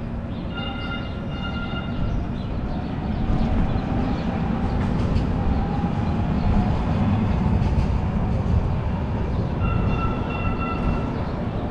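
A light rail train passing close by, its rumble swelling through the middle, while a horn sounds twice for about a second and a half each time, once near the start and once near the end.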